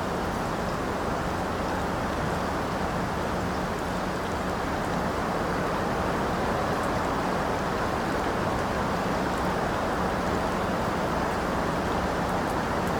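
Steady rain: an even, unbroken hiss with a few faint drop ticks on top.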